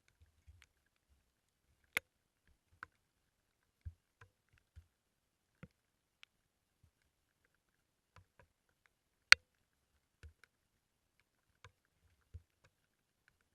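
Sparse, irregular light taps and knocks, with two sharper clicks, one about 2 seconds in and a louder one about 9 seconds in.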